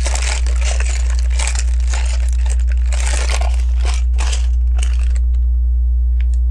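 Crinkling rustle of LEGO pieces being handled, as in sorting through a plastic parts bag, for about five seconds, then a few small plastic clicks near the end. A steady low hum runs underneath throughout.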